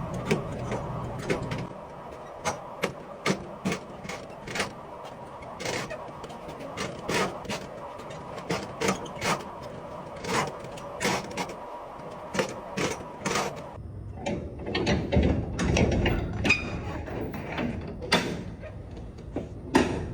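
Irregular run of sharp metallic clicks and clacks from a mechanism being worked, over a low running rumble that drops away about two seconds in and comes back near the end.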